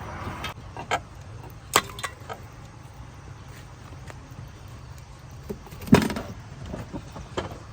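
A few short, sharp clicks and knocks scattered over a low steady rumble, the loudest about six seconds in.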